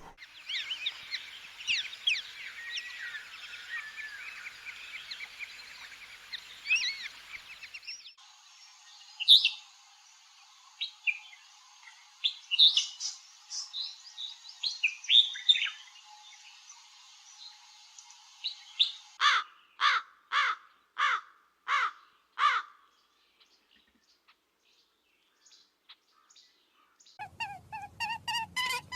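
Birds singing and calling: a dense chorus of chirps that cuts off about a third of the way in. Sparser chirps follow, then six loud, evenly spaced calls in a row. Near the end a steady musical pattern starts.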